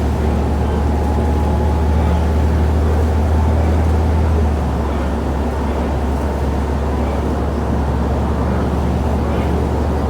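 City bus heard from inside the cabin while it accelerates at highway speed: a loud, steady low drone from the drivetrain over road noise, with a faint whine in the first two seconds. The drone eases slightly about four and a half seconds in.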